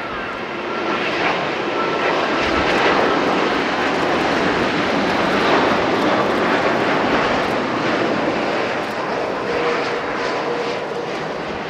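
Boeing 787-9 airliner's jet engines heard as it comes in to land: a loud, steady rush that swells over the first few seconds and eases slightly near the end.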